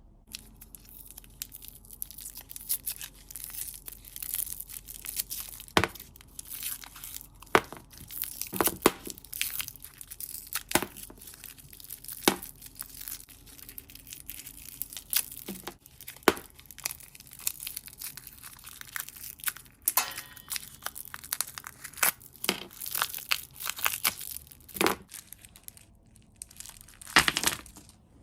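Plastic sweet and chocolate packaging crinkling and being torn open, with many sharp clicks and taps scattered irregularly throughout.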